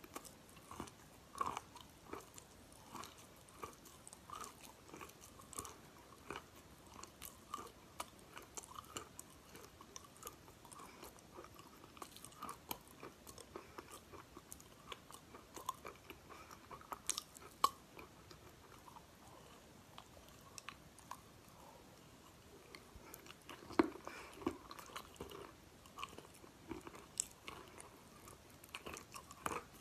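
Chewing and crunching crumbled chalk eaten from a spoon: a steady run of irregular crisp crunches and mouth sounds, with a handful of sharper clicks.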